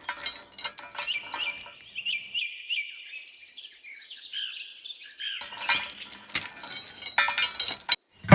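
Birds chirping in short repeated calls, with a fast high trill near the middle, mixed with many small sharp clicks and clinks.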